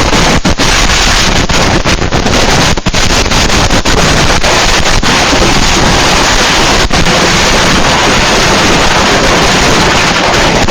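A mass of fireworks going off at once in a continuous, overloaded roar, starting suddenly and so loud that it swamps the microphone, with a few momentary dropouts.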